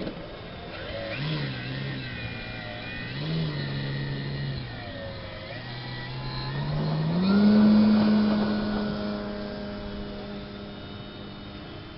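Multirotor drone's motors and propellers humming, the pitch dipping and rising several times as it manoeuvres. About seven seconds in the pitch climbs to a higher steady hum that is loudest just after.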